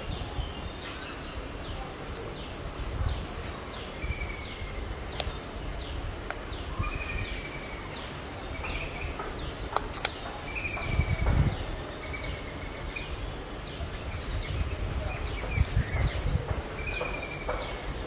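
Birds calling in foliage: a string of short, high, downward-sweeping chirps at about two a second, with a few short falling notes and bursts of very high twittering in between, over a low uneven rumble.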